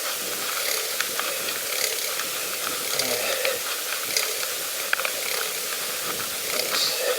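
Bicycle rear freewheel ticking as the bike rolls along, a run of quick irregular clicks over a steady hiss.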